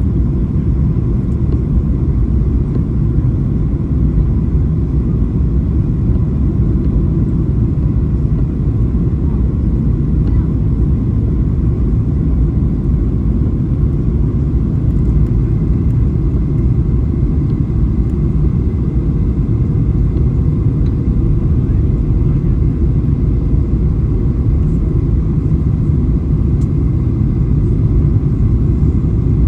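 Steady low cabin rumble inside a Boeing 737-800 airliner: engine and airflow noise, even and unbroken, with a faint steady whine above it.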